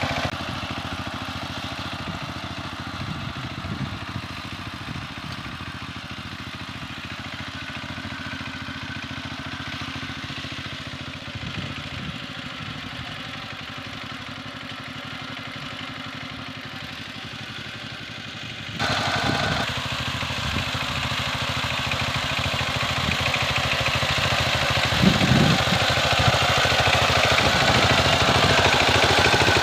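Kamco power tiller's single-cylinder diesel engine running steadily. About two-thirds of the way in the sound jumps suddenly louder and brighter, then grows slowly louder toward the end.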